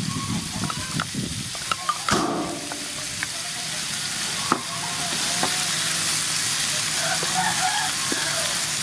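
Chopped tomato and garlic sizzling steadily in hot soybean oil while being stir-fried, with a spatula clicking against the pan now and then.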